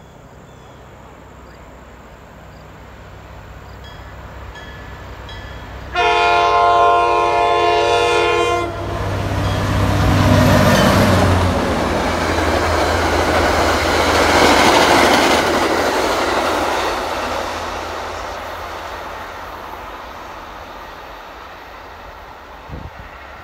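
A diesel-hauled commuter train approaches and passes at speed. About six seconds in, the locomotive sounds one long horn chord that drops in pitch just as it goes by. Then comes a loud rush of wheels and coaches on the rails over the low hum of the engine, fading as the train moves away.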